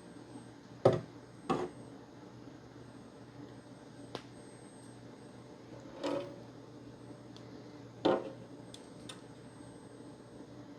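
Xbox One S console parts handled on a workbench: a handful of short knocks and clicks, the loudest about a second in, over a faint steady hum.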